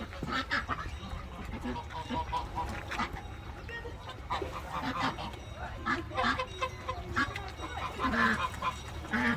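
A flock of farmyard waterfowl calling, many short overlapping calls, as the birds gather to be fed.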